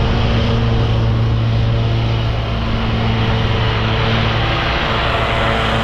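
Commercial lawn mower engine running steadily under load with the deck blades spinning while mulching leaves, a constant low hum over a rushing noise.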